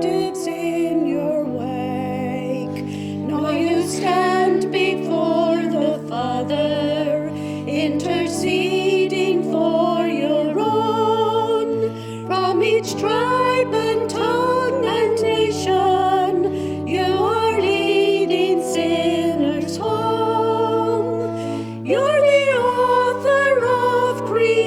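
Voices singing a hymn over organ accompaniment, the organ holding steady chords that change every second or two beneath the sung melody.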